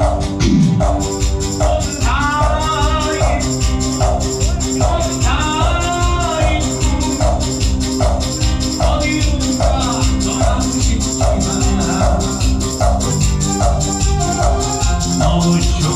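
Ppongjjak (trot) dance music played live on an electronic organ, with a steady fast beat and a melody over it.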